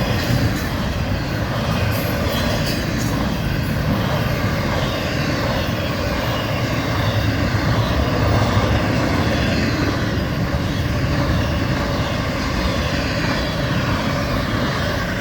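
Florida East Coast Railway freight train rolling past at close range: steady noise of the freight cars' wheels running on the rails.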